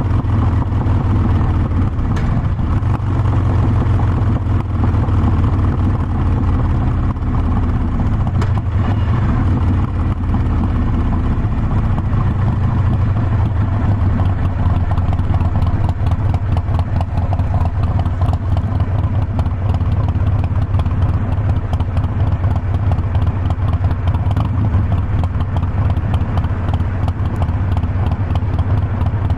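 Harley-Davidson Forty-Eight Sportster's air-cooled 1200 cc V-twin running steadily while the bike is ridden, with a deep, even exhaust pulse and no marked revving.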